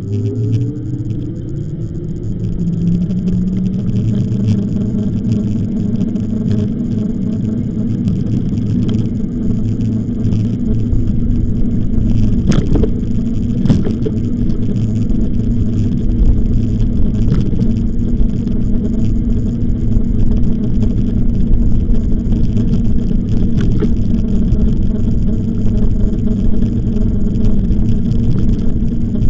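Wind rumbling on the microphone of a camera on a moving e-bike, growing louder as the bike picks up speed. A faint rising whine sounds in the first few seconds, and a couple of sharp knocks come about halfway through.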